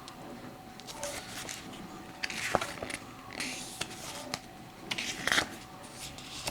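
Pages of a CD booklet being turned by hand: paper rustling and light taps, with louder page flips about two and a half seconds and five seconds in.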